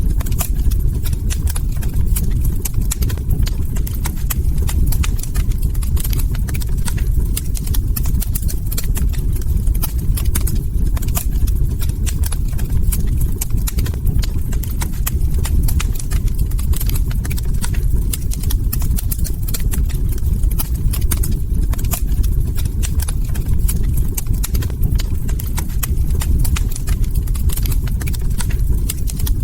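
Log fire crackling: dense, irregular small pops and snaps over a steady low rumble.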